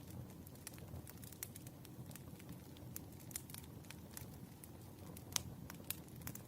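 Wood fire burning with a low steady rumble and irregular sharp crackles and pops, one louder pop about five seconds in.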